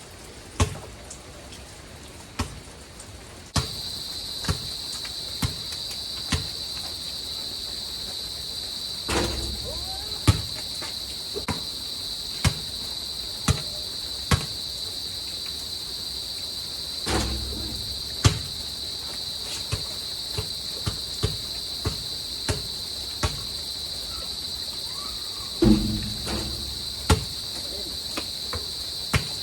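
A steady, high-pitched chorus of crickets comes in suddenly a few seconds in and runs on. Over it come sharp thuds of a basketball bouncing on an outdoor court, about once a second, and a few short voices.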